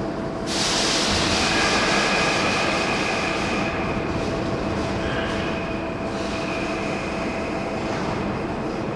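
Marunouchi Line subway train running on the rails. About half a second in the rushing noise rises sharply, and high steady tones then ring over the running rumble for several seconds.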